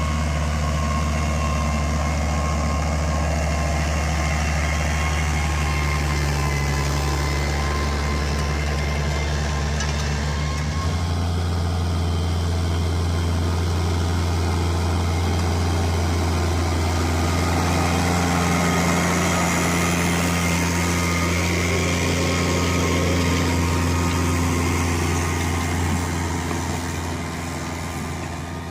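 New Holland T6070 tractor's six-cylinder diesel engine running steadily, its note stepping up slightly about eleven seconds in.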